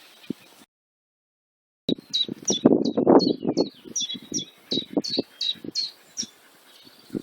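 A songbird singing a rapid string of repeated short, down-slurred whistled notes, about three a second, after a second of dead silence. Loud, irregular low thuds and rumbling sit under the song.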